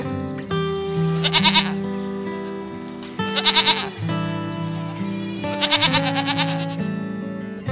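Three short, wavering animal calls, like bleats, about two seconds apart, over soft background music of held notes.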